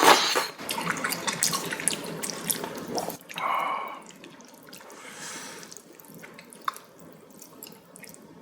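Wet eating sounds from a bowl of mala tang noodle soup: liquid dripping and splashing, with many small clicks. There is a louder wet sip or slurp about three seconds in, and the sounds grow quieter after it.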